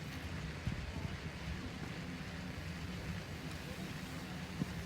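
Steady low mechanical hum under an even wash of background noise, with two brief knocks, one near the start and one near the end.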